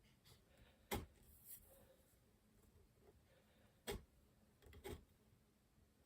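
Quiet hand-tool work: two sharp clicks, about a second in and about four seconds in, with a few softer taps near the end and faint short scraping strokes between them.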